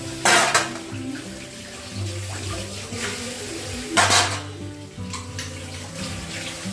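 Water running from a kitchen tap into the sink while dishes are washed, with two short, loud splashes about a third of a second in and again about four seconds in. Soft background music plays underneath.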